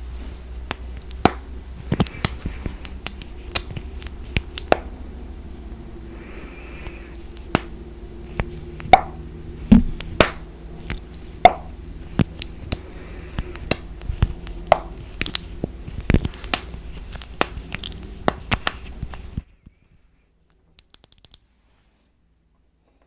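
Irregular sharp taps and clicks on makeup packaging, some with a short ring, over a steady low hum. The sounds cut off abruptly near the end, leaving near silence with a few faint ticks.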